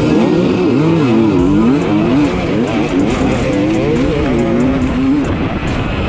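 Dirt bike engine revving up and down over and over, over background music with guitar.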